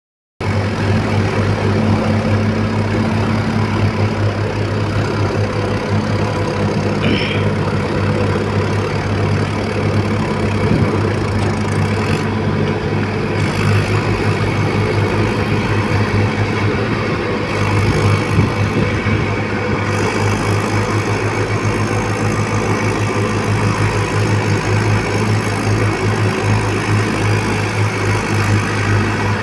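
Mahindra tractor's diesel engine running steadily at an even speed.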